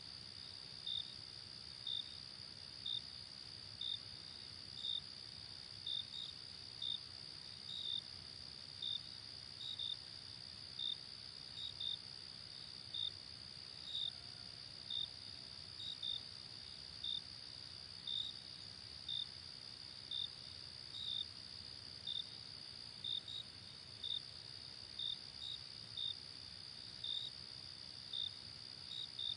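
Crickets chirping in a regular pulse of short high chirps, about one a second and sometimes in quick pairs, over a steady high insect trill.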